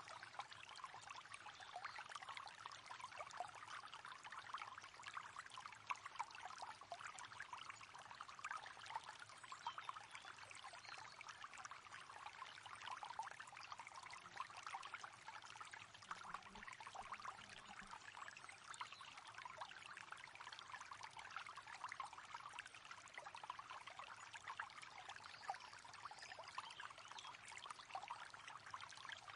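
River water flowing and babbling: a faint, steady rush of small splashes.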